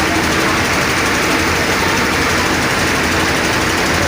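An engine running steadily and loudly, without let-up.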